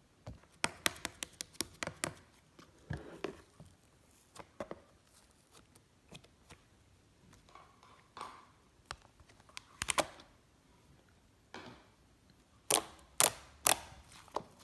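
Slime being pressed and stretched by hand, giving irregular sharp clicks and pops as trapped air bursts. The pops come in clusters with quiet gaps, the loudest few near the end.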